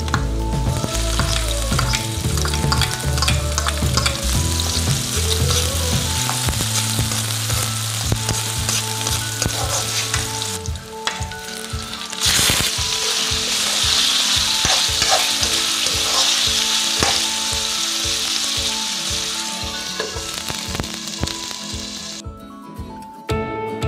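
Garlic and onions sizzling in hot oil in a wok, stirred with a metal spatula. About twelve seconds in, raw meat is tipped into the pan and the sizzling gets louder. Near the end it drops away sharply as a glass lid goes on.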